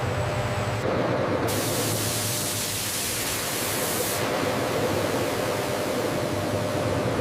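Steady industrial machinery noise with a low hum and a hiss. The hiss grows brighter from about one and a half to four seconds in.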